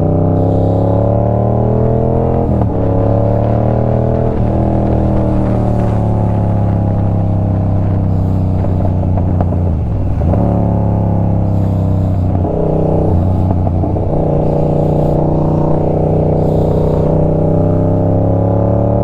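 2024 Yamaha R7's 689 cc parallel-twin engine under way, its pitch climbing through several pulls with drops between them as the rider shifts up. About ten seconds in, the revs fall away as the bike slows, then build again.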